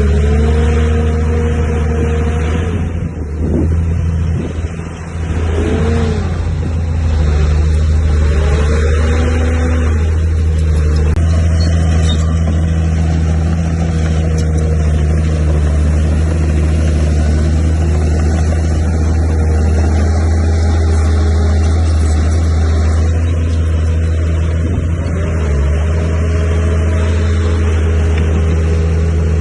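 Heavy diesel engine of earthmoving machinery running steadily. Its pitch dips and rises a few times in the first several seconds, then holds even.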